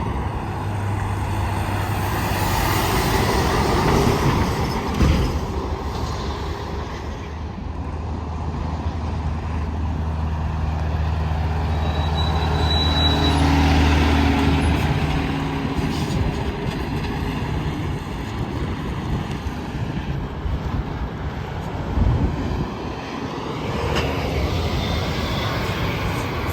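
Heavy traffic passing on an interstate highway: tyre noise and diesel truck engines swelling and fading as vehicles go by, with a steady low engine drone through the middle and a brief thump about 22 seconds in.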